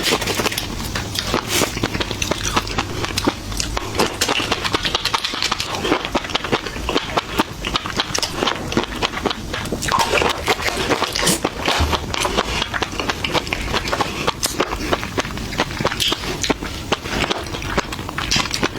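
People biting and chewing food, with many irregular crunching and crackling clicks throughout.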